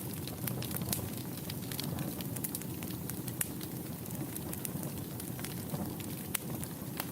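Wood fire burning in a fireplace: a steady low rumble and hiss of flames with frequent sharp crackles and pops at irregular intervals.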